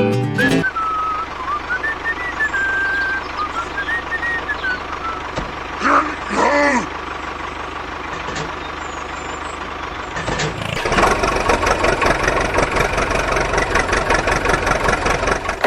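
Machine running: a wavering high tone over a low steady hum, then, about eleven seconds in, a loud rattling motor noise with a rapid even pulse that runs on, from a homemade mini tractor or mini JCB.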